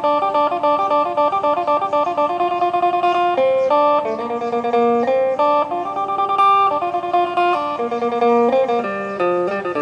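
Electric phin (Isan lute) played through an amplifier: a quick plucked melody of many short notes over a held lower note.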